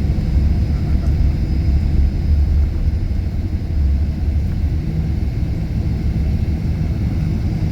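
Steady low rumble of a moving vehicle heard from inside its cabin: engine and road noise, unchanging throughout.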